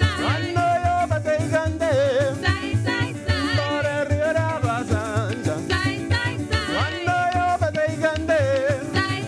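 Band music in Trinidad parang style: a lead melody with vibrato over strummed strings and a steady, pulsing bass beat.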